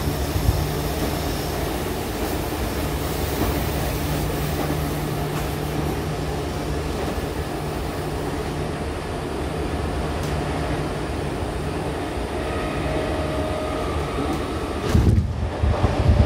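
Meitetsu 5000 series electric train running at speed, heard from inside the car: a steady rumble of wheels on rail with a low hum. About fifteen seconds in it turns louder, with uneven low knocking.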